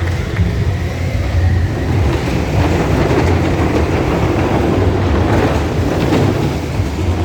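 Motorcycle engines running with a loud, steady rumble.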